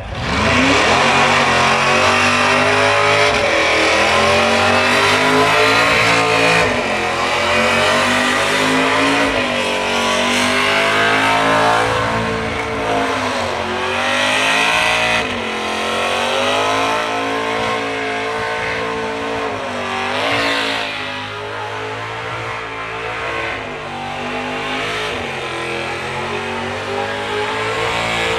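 Car engine revving hard during a burnout, its pitch rising and falling again and again as the rear tyres spin.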